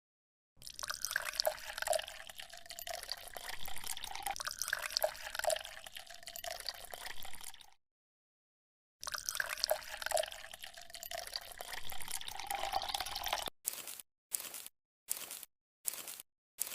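Liquid trickling and dripping with small splashes. It cuts out completely for about a second after the first half, resumes, then breaks into short chopped snippets near the end.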